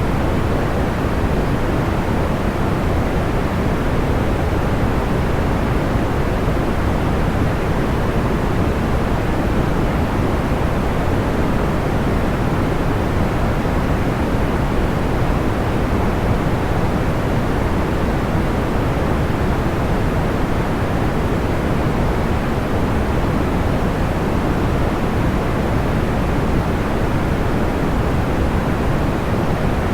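Steady, even noise of the pink-noise kind, deep rather than hissy. It runs with no crackles, pops or changes.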